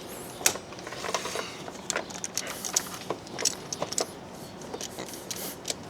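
Irregular light clicks and rattles of a hand tool turning and snugging down a BMW E46 oil filter housing cap, about two final turns.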